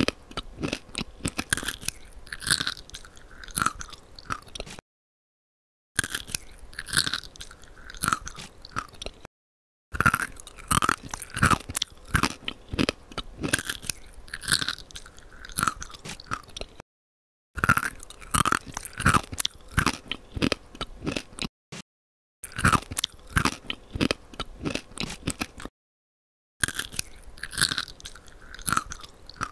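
Close crunching and chewing of sugar-glazed fruit skewers (tanghulu), the hard candy shell cracking in crisp bites. The sound comes in stretches of a few seconds, cut off abruptly by short silent gaps about five times.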